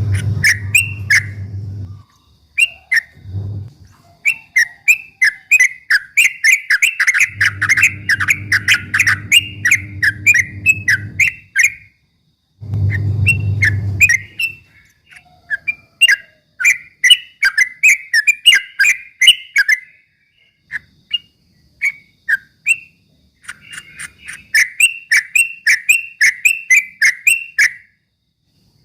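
Yellow-vented bulbul singing its rapid rolling 'ropel' song: long fast runs of sharp chirps with short pauses between them. A low hum sounds under the birdsong at the start and twice more in the first half.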